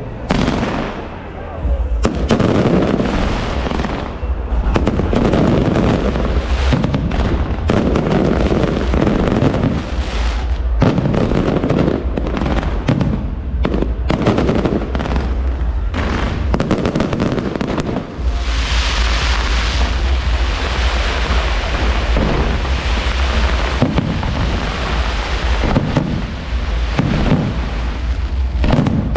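Aerial fireworks show: a dense, continuous barrage of shell bursts and deep booms. About two thirds of the way through, a thick crackling hiss takes over.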